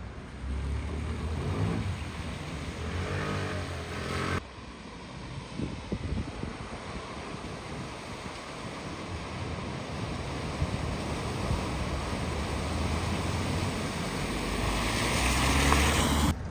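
A vehicle's engine running as it drives through floodwater, with water rushing and splashing around it. The sound cuts off abruptly about four seconds in and gives way to another vehicle ploughing through water, where the rush of water builds louder near the end.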